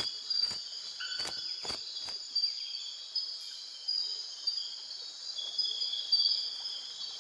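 Steady, dense high-pitched chorus of tropical insects, with a few sharp clicks in the first two seconds.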